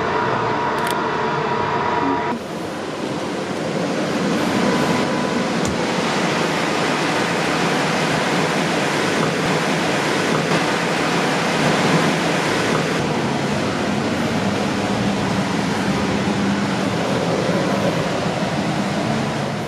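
Loud, steady rushing noise of a running machine, with an abrupt change in its sound about two seconds in.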